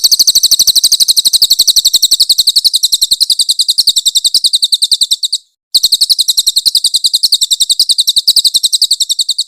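Crested jay (cililin) giving a loud, harsh, high-pitched rattling call of rapid repeated notes, about a dozen a second, in two long runs with a short break about five and a half seconds in.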